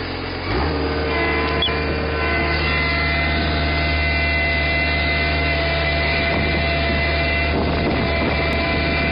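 Tractor engine running with a steady drone; it rises in pitch and loudness about half a second in, then holds at a steady speed.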